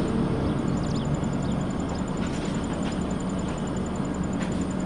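Steady low rumble of a passenger train running, with a few faint clicks over it.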